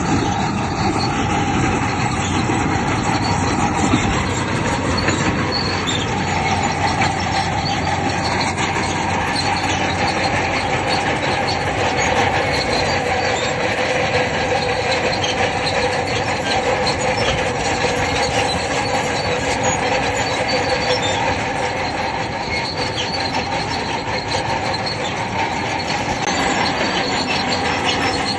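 Bulldozer working: its diesel engine running with the steel tracks clanking and squealing steadily.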